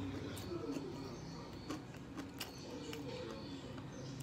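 Someone chewing kimbap: scattered sharp mouth clicks and smacks.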